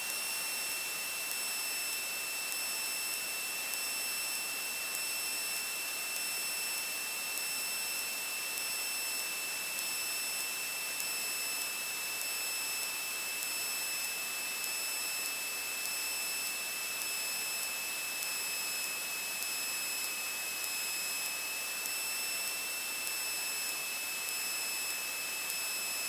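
Steady hiss with a constant high-pitched whine, the electrical noise of the aircraft headset intercom line with nobody talking.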